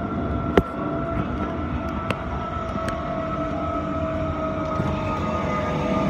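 Transperth electric suburban train running, heard inside the carriage: a steady rumble of wheels on track under a steady electric whine. A sharp click about half a second in, with two fainter clicks a little later.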